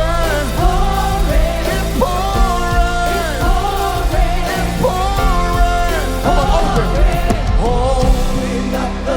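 Live worship band music: a steady low band part under singing in long held notes, each one gliding up into pitch.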